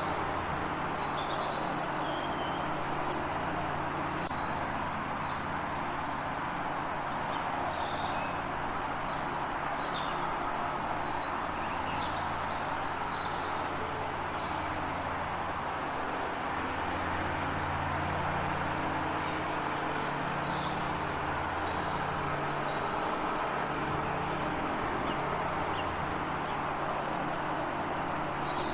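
Small birds chirping in short, scattered high calls, busiest in two spells, over a steady low rumble of road traffic.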